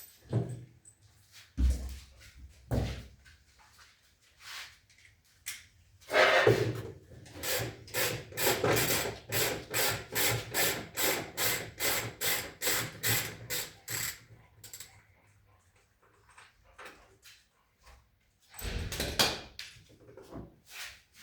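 Ratchet wrench being worked on a bolt of a front-loading washing machine's drum, a steady run of clicking strokes about three a second for some eight seconds. There are a few knocks of parts and tools being handled before and after.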